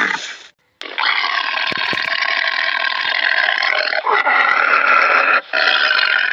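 Animal calls, cut together: a short one, then a long noisy call lasting several seconds, then another after an abrupt break.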